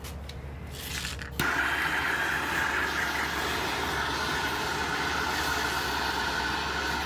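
Handheld gas soldering torch being lit: gas starts hissing about a second in, catches with a sudden jump in level, then burns with a steady hiss until it is shut off suddenly near the end.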